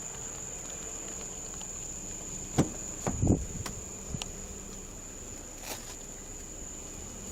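Steady high-pitched buzz of insects. A few short knocks and clicks are heard about a third of the way in.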